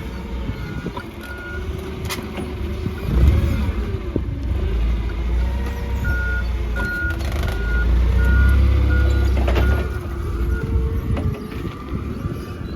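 Vehicle backup alarm beeping about twice a second, over the low rumble of a heavy engine that swells in the middle and drops off near ten seconds.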